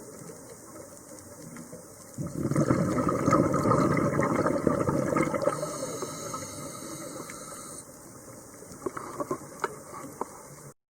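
Scuba diver's exhaled bubbles gurgling underwater: one long exhalation starting about two seconds in and fading over several seconds, with a few small clicks near the end.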